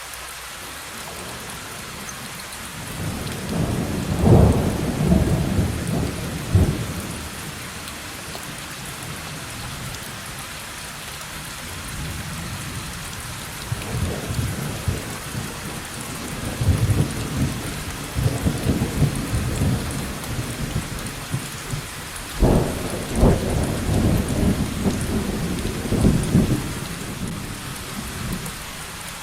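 Steady heavy rain with rolling thunder: three long rumbles, about three seconds in, in the middle, and near the end, over the constant hiss of the rain.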